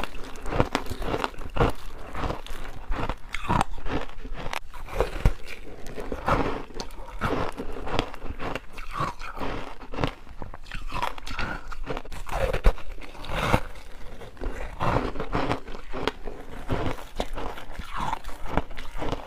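Freezer frost soaked in passionfruit juice being bitten and chewed close to the mouth: a rapid, irregular run of crisp crunches with wet mouth sounds between bites.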